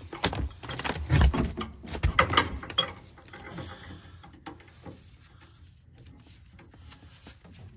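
Metal hand tools clattering and clanking as wrenches are handled and a pipe wrench is picked up: a busy run of clanks over the first three seconds, then lighter scattered ticks and scrapes.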